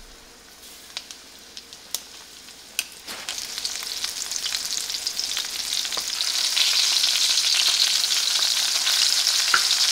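Breaded bluegill fillets sizzling in hot oil in a stainless skillet. The sizzle builds from about three seconds in as fresh pieces are laid in, and is louder in the second half. A few light clicks come before it.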